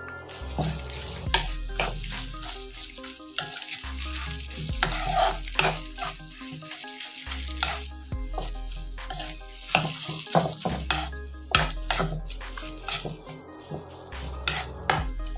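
Grated potato and egg frying in oil in a kadai, sizzling, while a steel spoon stirs and scrapes it against the pan in repeated strokes of metal on metal.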